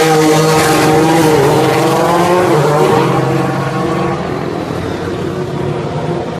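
A 2016 Formula One car's 1.6-litre turbocharged V6 hybrid engine running at high revs. Its note steps down in pitch twice in the first few seconds, then fades steadily toward the end.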